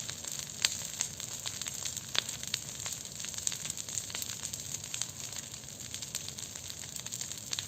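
Large open bonfire crackling, with a steady hiss and many sharp pops and snaps scattered throughout; a couple of louder pops come about one and two seconds in.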